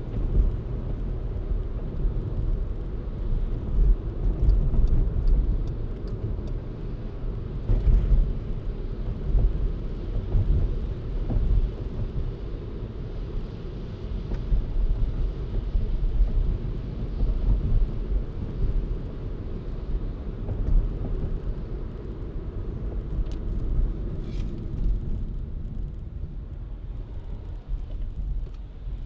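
Car driving on city streets: a low road and engine rumble that rises and falls in loudness.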